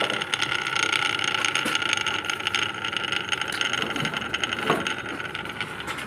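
Single-phase electric motor running on a test run after a series-lamp test: a steady high whine with a light, rapid rattle.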